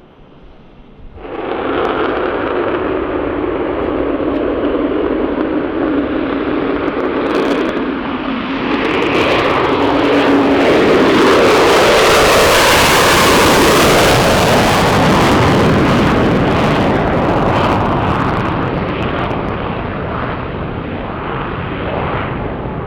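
Aircraft departing: engine noise starts abruptly about a second in, swells to its loudest about halfway through as the plane passes, then slowly fades away.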